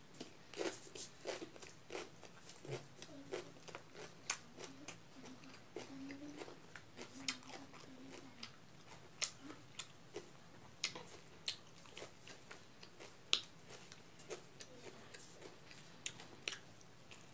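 Close-up eating sounds of a person chewing a mouthful of rice and boiled vegetables: faint chewing with irregular short mouth clicks and smacks, about one or two a second.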